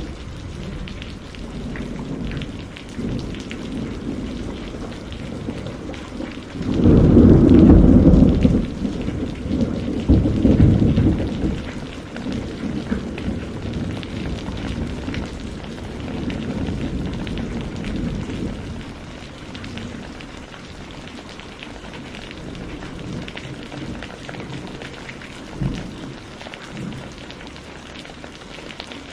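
Steady rain with a long roll of thunder. The thunder breaks about seven seconds in, swells again a few seconds later, then rumbles away over the next several seconds. A brief low thump comes near the end.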